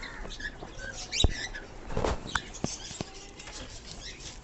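Birds moving about in a loft: scattered short chirps and scratchy rustling, with a few light knocks.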